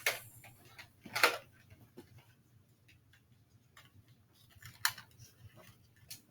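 A few sharp plastic clicks and knocks from Nerf blasters being handled, the loudest about a second in and another near five seconds, with fainter ticks between.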